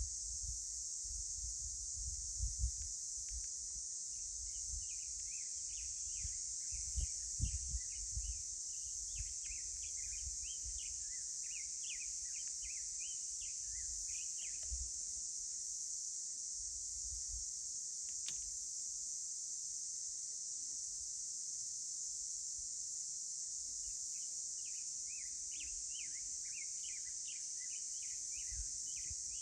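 Steady, high-pitched chorus of insects in a canyon, with many small birds chirping in quick runs over it in the first half and again near the end. Low rumbles come and go underneath during the first half.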